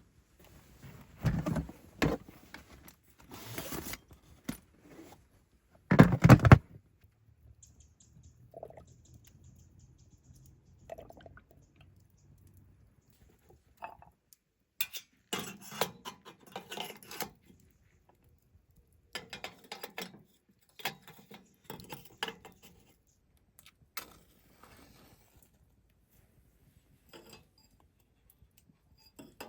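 Camp cookware and utensils being handled: intermittent clinks, knocks and clatter, with the loudest knock about six seconds in.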